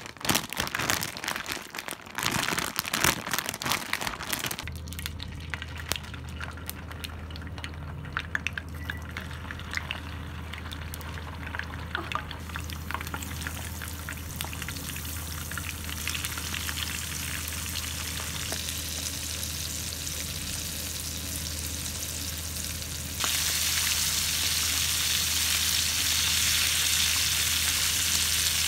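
Chicken pieces for karaage shallow-frying in hot oil in a pan: a steady sizzle with crackles and pops over a low hum. The first few seconds hold rustling, clicking handling noises before the frying starts, and the sizzle grows louder about five seconds before the end.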